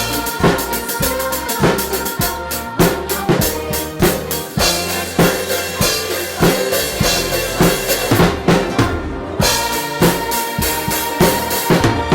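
Drum kit played along to a recorded song's instrumental backing, with a busy run of snare and bass drum hits over the music. The high hits drop out briefly about three-quarters of the way through, then resume.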